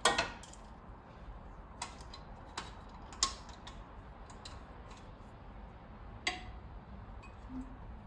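Hand tools on metal engine parts: a handful of sharp, irregular metallic clicks and taps, the loudest right at the start, during push-rod and rocker-arm work on a 3.8L V6.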